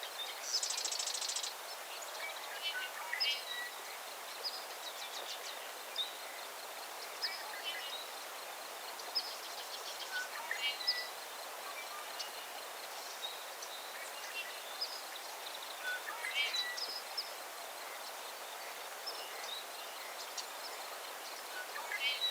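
Small birds chirping in short, scattered high calls over a steady outdoor hiss, with a buzzy trill about a second in.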